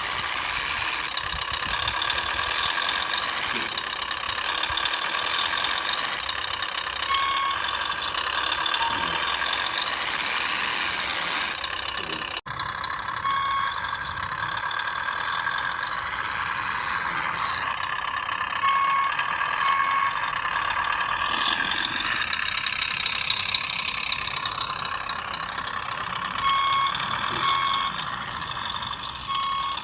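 Radio-controlled Scania 6x6 truck's electric drivetrain whining as it drives, rising and falling in pitch, with short paired reversing beeps at intervals. The sound cuts out for an instant near the middle.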